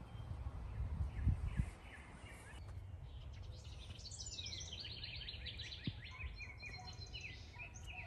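Songbird singing outdoors: a fast run of short, repeated high notes through the second half, over a gusty low rumble of wind on the microphone that is loudest about a second in.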